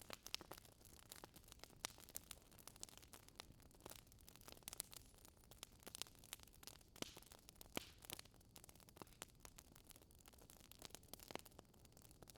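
Wood fire in a fireplace crackling softly, with irregular small pops and snaps over a faint hiss.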